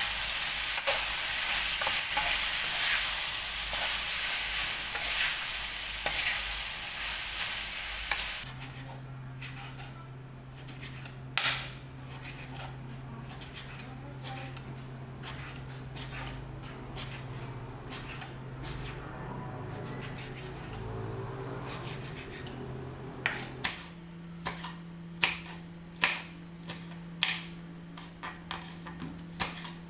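Pork belly and green chillies sizzling loudly as they are stir-fried in a pan with a metal spatula, for about the first eight seconds. Then a quieter stretch with a low steady hum and a few soft knife cuts through raw pork belly on a wooden board. In the last six seconds a kitchen knife slices green chillies on the board in a quick series of sharp taps.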